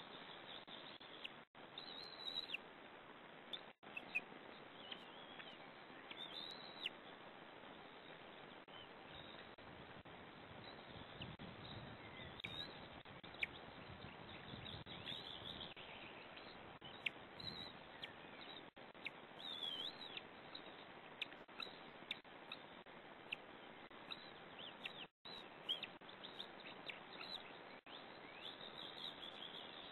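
Short, high-pitched bird chirps and peeps scattered throughout, over a steady hiss, with the sound cutting out briefly a few times.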